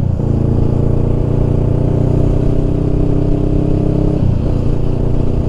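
Honda Rebel 500's parallel-twin engine running at a steady pitch, with a brief change in note about four seconds in.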